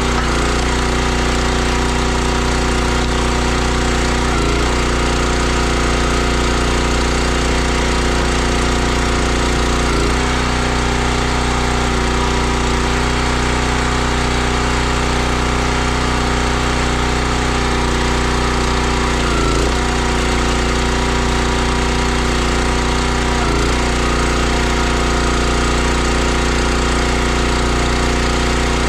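Gas engine of a 32-ton Country Line log splitter running steadily, its pitch dipping briefly every few seconds.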